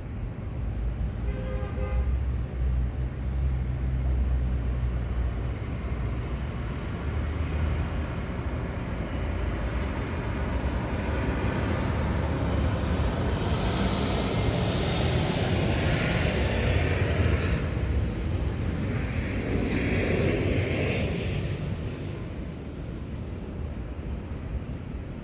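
Airplane flying over, a jet-like rush that grows louder over several seconds, peaks about two-thirds of the way in, then fades away.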